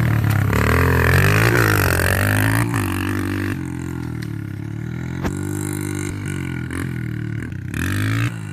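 Dirt bike engine running, its pitch rising and falling as the throttle opens and closes. It gets quieter and steadier about three and a half seconds in, with a couple of sharp knocks.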